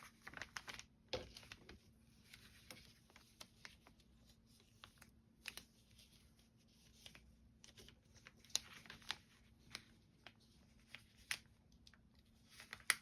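Quiet, scattered rustling and crinkling of paper templates and fabric with light clicks, as paper-pieced quilt block pieces are handled and pinned together.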